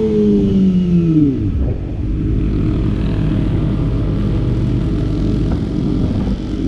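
Kawasaki ZX-25R's 249 cc inline-four engine, its revs dropping away steeply over the first second and a half, then running low and steady.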